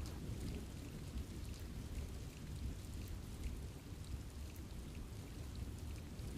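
Steady rain falling in a forest, with a low, even rumble underneath and scattered small drop ticks on top.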